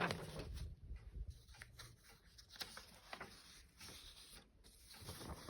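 Faint rustling and soft clicks of paper: the pages of an old magazine being handled and leafed through.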